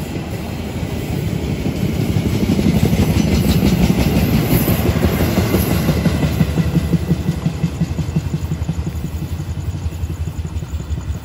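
Passenger train coaches rolling past close by at speed, steel wheels clattering on the rails. The noise peaks about three to four seconds in, then fades with a regular clacking as the last coach goes by and recedes.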